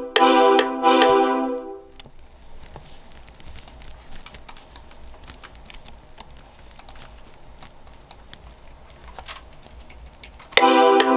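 A software-synth chord loop plays and stops about two seconds in; then scattered computer keyboard typing and clicks go on for several seconds. Near the end the chord loop starts up again.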